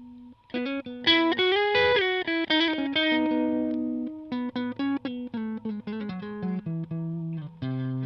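Stratocaster electric guitar played through a Valeton Dapper mini amp-simulator pedal: a quick run of single notes with a string bend about two seconds in, then a descending line of notes, ending on a held chord near the end.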